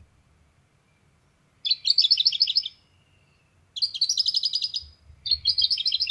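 Small songbird singing three bright, rapid trilled phrases of about a second each, high-pitched and separated by short pauses.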